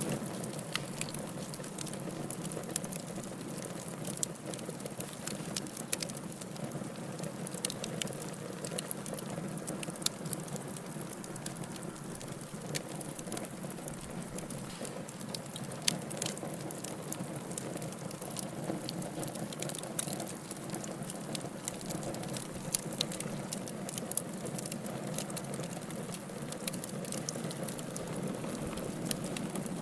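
Wood fire burning in a fireplace: a steady low hiss and rumble of flames with frequent irregular crackles and pops.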